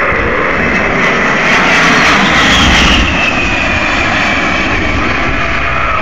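A-10 Thunderbolt II jet passing with its twin turbofan engines running: a high whine over a jet rumble that swells to its loudest about two to three seconds in, then eases.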